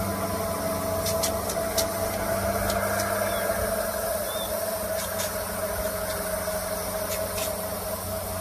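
Steady motor hum with a constant drone and a few faint clicks.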